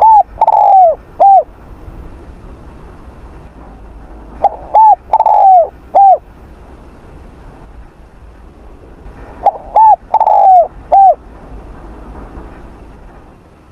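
Spotted dove cooing in three phrases about five seconds apart. Each phrase has two short coos, a longer falling coo and a short closing coo.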